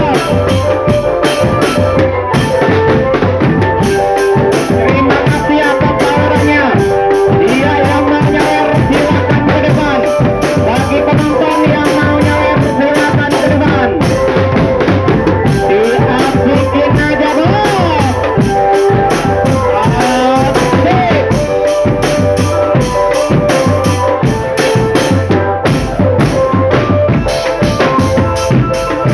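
Marching drum band playing: snare and bass drums beat a driving rhythm while a melody runs over the drums.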